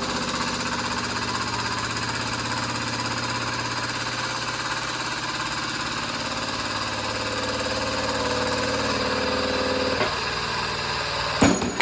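Shop press's foot-pedal pump running steadily under load, pressing a wheel bearing out of a hub, its pitch shifting slightly late on. Near the end, a sharp crack as the bearing lets go.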